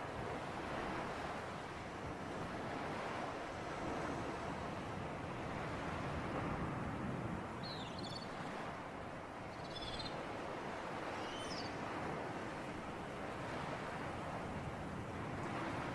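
Sea surf and breeze: a steady rush of waves and wind that swells and eases slowly. Three short high chirps come about halfway through.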